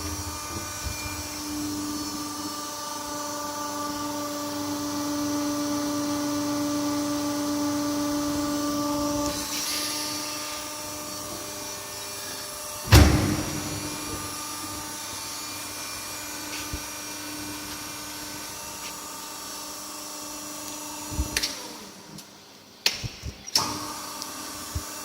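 Colly 350-ton flattening press running with a steady machine hum that grows louder for several seconds and then eases off. About halfway through there is one sharp, loud bang, with a few smaller knocks near the end.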